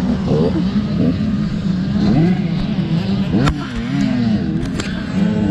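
Several motocross dirt bike engines revving, their pitch rising and falling as they accelerate and shift, overlapping one another. Two sharp clicks come about three and a half and nearly five seconds in.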